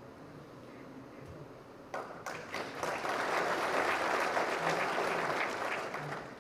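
An audience's applause: clapping breaks out about two seconds in, swells and holds, then dies away near the end.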